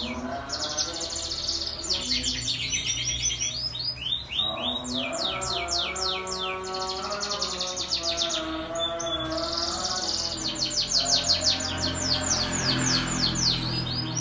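Domestic canary singing long, fast trills of rapidly repeated high notes in several runs, over background music with sustained held tones.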